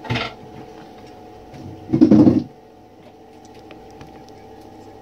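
Typewriter parts being handled while they are washed in cleaning fluid: a brief noise at the start and a louder half-second burst about two seconds in, over a steady background hum.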